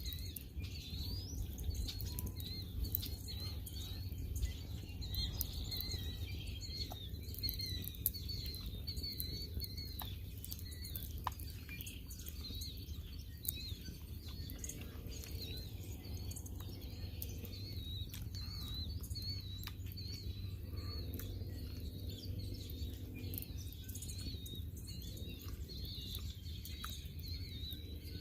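Small songbirds chirping and twittering continually, many quick high notes, over a steady low outdoor rumble.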